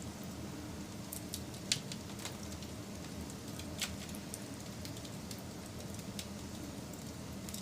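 Wood fire burning with a steady low rush and irregular crackles and sharp pops, two pops standing out about two and four seconds in.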